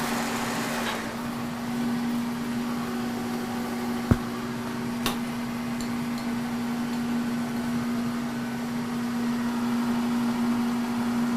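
K&T 2HL milling machine, rigged as a lathe, running with a steady hum through a power-fed turning cut. Two sharp clicks come near the middle, a second apart.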